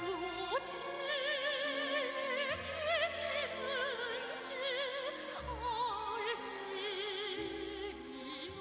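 Operatic singing with a wide, regular vibrato over an orchestral accompaniment of sustained low notes.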